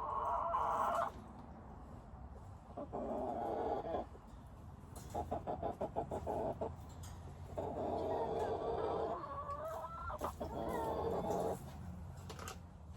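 Domestic hen clucking in repeated bouts of about a second each, five in all, with some higher chirping notes between them and a quick run of clucks midway.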